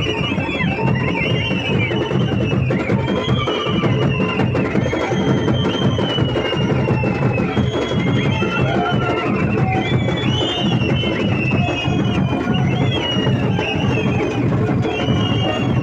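Music played throughout: drums beaten continuously, with a high, wavering melody gliding above them.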